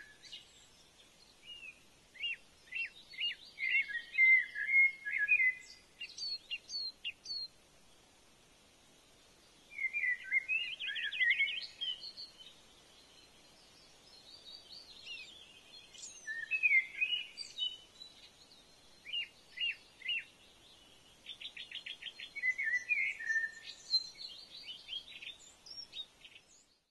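Songbirds singing in phrases of varied chirps and rapid trills a few seconds long, with short pauses between, over a faint steady hiss. The sound cuts off suddenly near the end.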